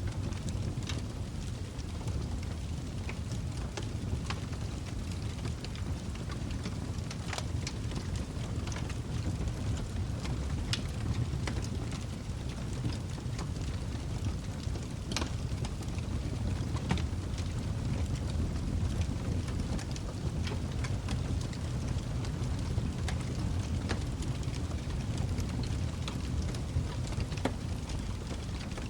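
Log fire burning in a fireplace: a steady low rumble of the flames with scattered sharp crackles and pops from the burning wood, a few louder pops standing out.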